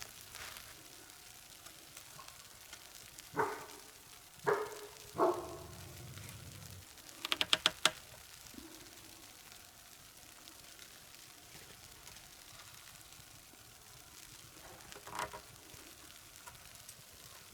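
Faint steady sizzling, broken by three short knocks a few seconds in, then a quick run of about five sharp clicks, and one more knock later on.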